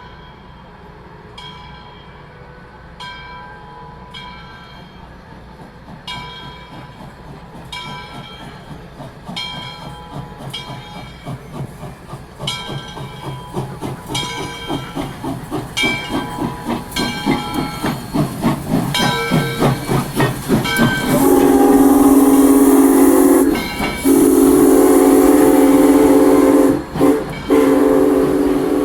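Steam locomotive getting under way with its bell ringing about every second and a half, its exhaust beats growing quicker and louder as it draws closer. Near the end it sounds its whistle in long, loud blasts with a few short breaks.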